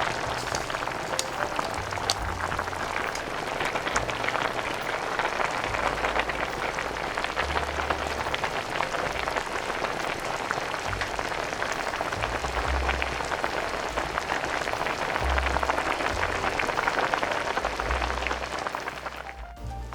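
Pot of spicy udon broth at a rolling boil: a steady, dense bubbling crackle that cuts off shortly before the end.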